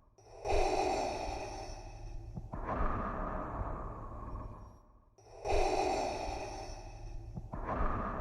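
Darth Vader's mechanical respirator breathing sound effect: slow, hissing breaths in and out, each lasting about two and a half seconds. Two full in-and-out cycles, each beginning after a brief gap.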